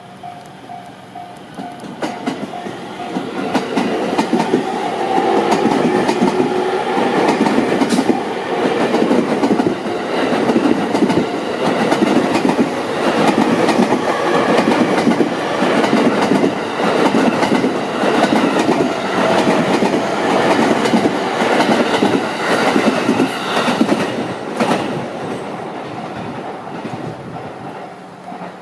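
A train running past on the rails, its wheels clicking rhythmically over the rail joints. It grows loud over the first few seconds, holds for about twenty seconds, then fades away near the end.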